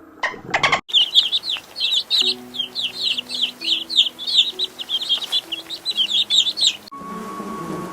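Bird chirping rapidly: a quick run of high, short, falling chirps, several a second, over soft background music, cutting off abruptly near the end.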